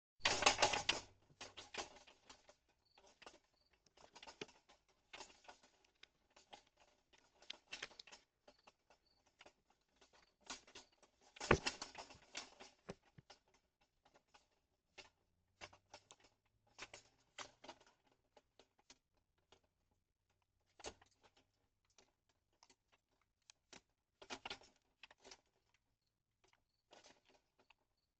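A raccoon rummaging at a bird feeder: irregular clicking, scratching and rustling, loudest right at the start and again about eleven seconds in.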